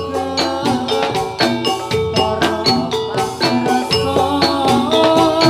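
Gamelan accompaniment for a jathilan horse dance: bronze metallophones struck in a quick, even run of notes over drum strokes.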